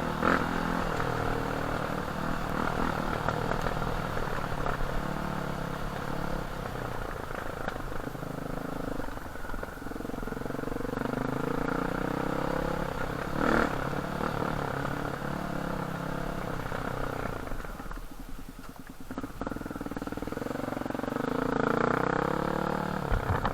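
Enduro motorcycle engine running while riding, its pitch rising and falling with the throttle. It eases off for a moment about three-quarters of the way in, then picks up again.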